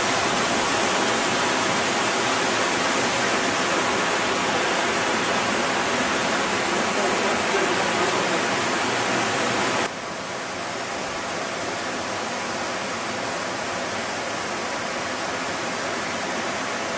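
Waterfall's rushing water, a steady even roar. It drops abruptly to a quieter level about ten seconds in.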